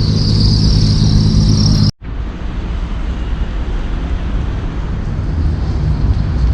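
Outdoor road-traffic noise: a steady low rumble of passing vehicles under an even hiss. A high, steady hiss in the first two seconds stops abruptly at a sudden cut, after which the traffic rumble carries on.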